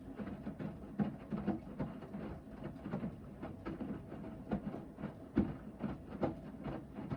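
Hoover VHD 9163 ZI washing machine in its main wash: the drum is turning, and the laundry and water slosh and thud against it in an irregular run of soft knocks.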